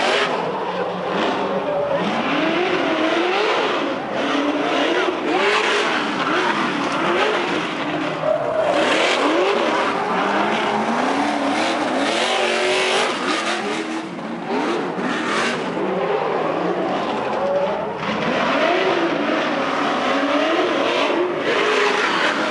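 Trophy truck engines revving hard, over and over, the pitch rising and dropping every second or two, with a heavy rush of noise underneath.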